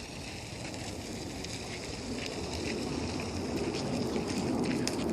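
Outdoor background noise during a walk, with scattered faint crackles and a low rumble that grows louder near the end.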